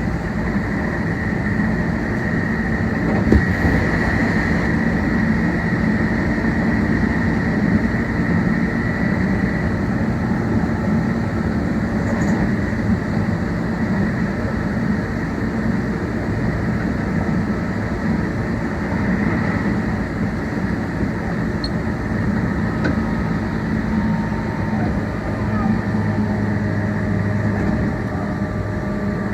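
Meitetsu 1800 series electric train running at speed, heard from inside the carriage: a steady rumble of wheels on rails, with a faint high whine for roughly the first ten seconds and a single sharp knock about three seconds in.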